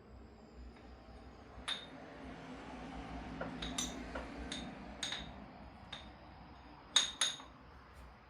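A series of sharp metallic clinks, irregular and spread out, the loudest two close together about seven seconds in: the steel pieces of a power steering pulley puller kit being handled and set against each other.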